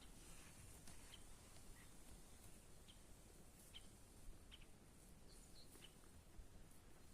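Faint, scattered short chirps of birds over a quiet outdoor background.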